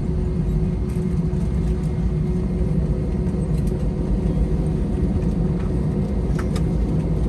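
Airliner cabin noise of an Airbus A321 taxiing after landing: a steady low rumble from its IAE V2500 engines at idle and the rolling airframe. A faint steady hum fades about halfway through, and there are a couple of faint clicks near the end.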